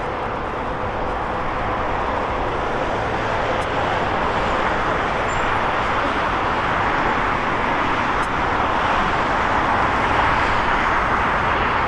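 Jet airliner engines: a steady rushing noise that slowly grows louder.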